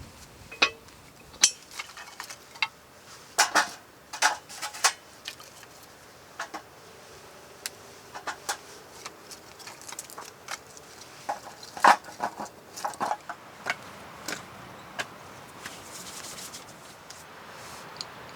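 Irregular clinks, clanks and rattles of metal camping gear being handled and set up, the loudest knocks about a second and a half in and again about twelve seconds in.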